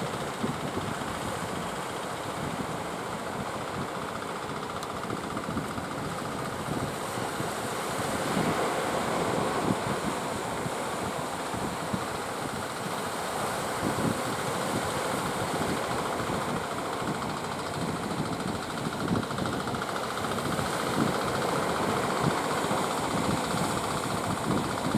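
Speed boat engine running steadily, growing a little louder about a third of the way in, with wind on the microphone and the sound of surf behind it.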